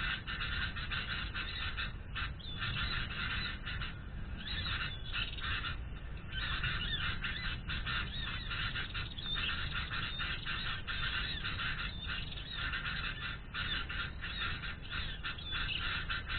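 Many birds chirping and chattering rapidly and without let-up, with a steady low rumble underneath.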